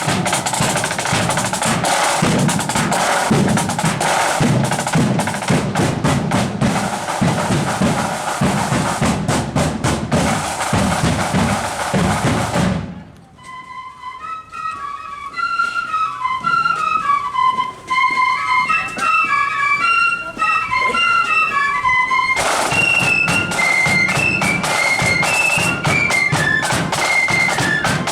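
Marching flute band playing a tune: flutes over snare and bass drums. About 13 seconds in the drums stop and the flutes carry the melody alone. The drums come back in about 22 seconds in.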